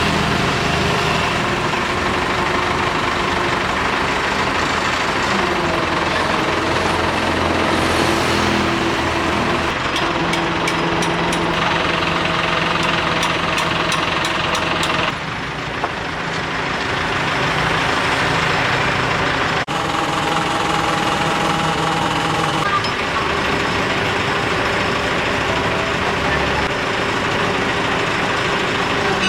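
Heavy diesel engine running loudly, its pitch shifting several times as the load or revs change. A regular ticking runs for a few seconds near the middle.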